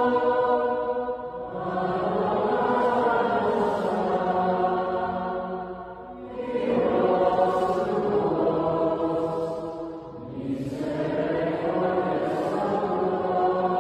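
Slow sung Marian hymn in chant style: long held notes in phrases, with short breaks about every four seconds.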